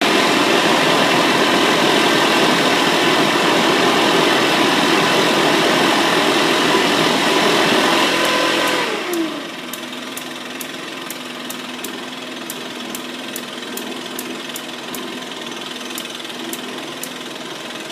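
Small turbojet engine running loudly and steadily with a whining tone, then shut down a little before halfway through, its whine falling in pitch as it spools down. A quieter steady hum remains, with regular sharp ticks about three times a second.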